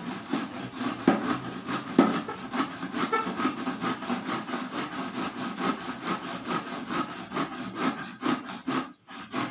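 Hand saw cutting through a wooden batten, with quick, even back-and-forth strokes at about four a second that pause briefly near the end.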